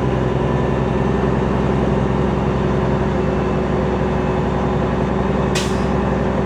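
Semi truck's diesel engine running steadily, heard from inside the cab, with a short hiss about five and a half seconds in.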